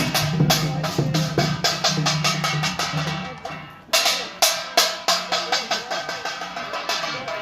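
Korean pungmul percussion band playing fast: rapid metallic strikes of kkwaenggwari small gongs over janggu and buk drums. The playing thins out a little past 3 seconds in, then comes back in loudly at about 4 seconds.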